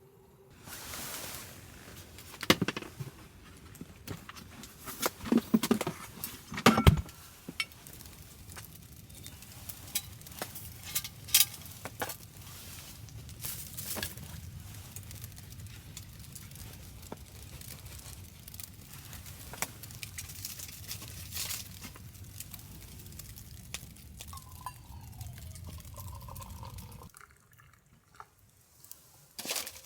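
Liquid being poured steadily for most of the time, stopping abruptly near the end, with sharp clinks and knocks of cookware handled alongside, several of them close together a few seconds in.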